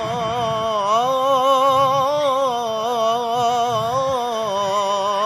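A male muezzin's voice holding a long, ornamented melismatic note of the adhan, the call to prayer, with the pitch wavering and sliding continuously. A low background rumble runs underneath.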